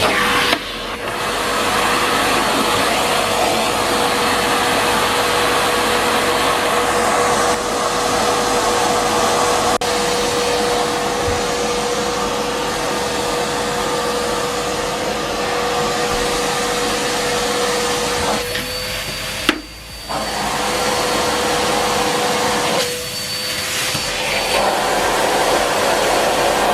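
Numatic Henry Pet cylinder vacuum cleaner running, a steady rushing drone with a constant motor whine. About three quarters of the way through, the sound briefly drops and changes character for a moment, then carries on.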